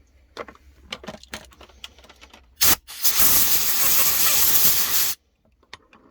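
Compressed-air blow gun blasting air through the Honda Izy lawnmower's carburetor passages to clear them: a few small clicks of handling, then a short blast and a steady hiss of about two seconds that cuts off sharply.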